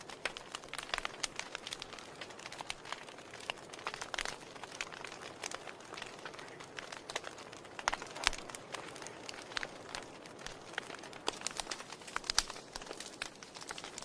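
Wood fire in a fireplace crackling: irregular sharp pops and snaps over a soft steady hiss, with a few louder pops along the way.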